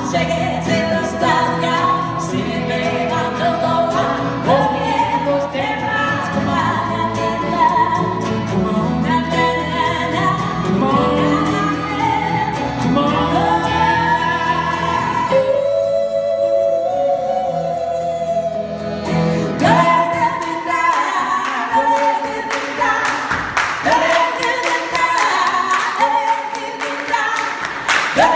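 Live folk band with several voices singing wordless harmonies over the instruments. Near the end the band drops out, leaving the voices singing unaccompanied over steady hand claps.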